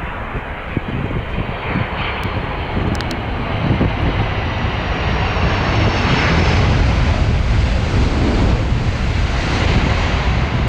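Jet engine noise of an arriving Boeing 747-400 freighter, a dense rumble with a faint high whine, growing louder about six seconds in.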